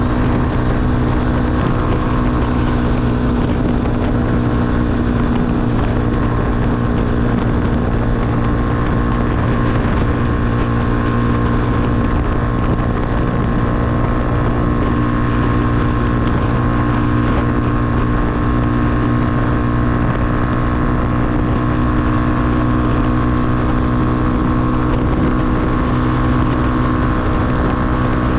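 Motorcycle engine running at a steady speed under way, its pitch holding level, with wind rushing over the microphone.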